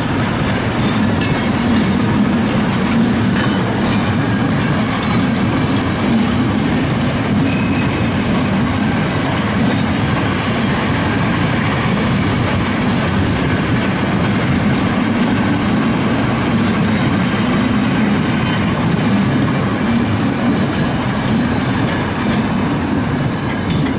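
Freight wagons rolling past at speed: a steady rumble and clatter of steel wheels on the rails.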